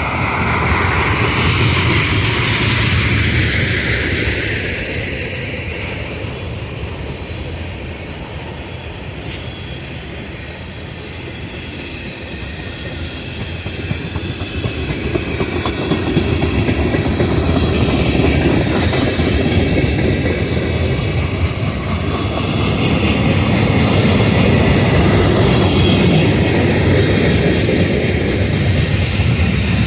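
Freight train cars rolling steadily past, wheels clicking and rumbling over the rail joints. The sound eases briefly about ten seconds in and builds again.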